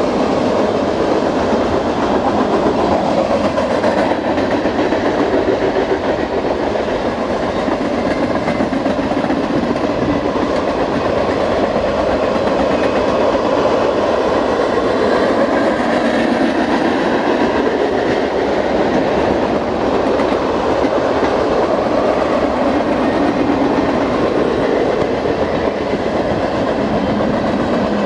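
Freight cars of a long mixed freight train (covered hoppers and tank cars) rolling past close by: a steady rumble and clatter of steel wheels on the rails.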